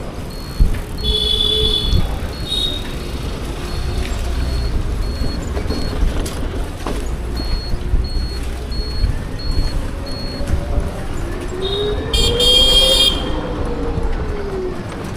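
Riding an electric scooter in traffic: steady wind and road rumble, with a rapid high beeping about three times a second that stops and restarts. Short vehicle horn honks sound about a second in and again near the end.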